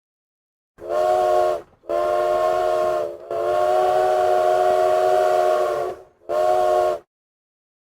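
Steam train chime whistle blowing four blasts, short, longer, long and short, each a chord of several tones over a hiss of steam.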